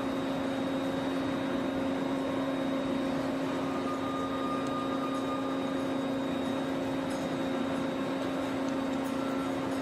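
A steady machine hum with a constant low pitch over an even hiss.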